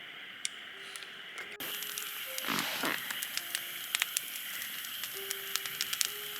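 Campfire crackling, with scattered sharp pops over a steady hiss that gets suddenly louder about a second and a half in. Soft background music notes sound over it.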